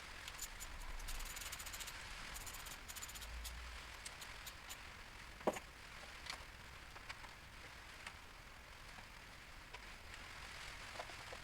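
Faint workshop handling noises: quick, light metallic clicks and rattles of tools and parts, with one sharper click about five and a half seconds in.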